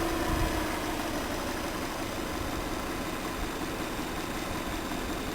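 Car engine idling just after starting, its revs falling and settling within the first second, then running steadily. The sound cuts off abruptly at the end.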